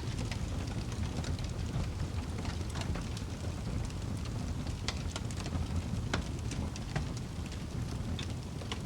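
Wood fire burning in a fireplace: a low steady rumble of flames with irregular sharp crackles and pops from the burning wood.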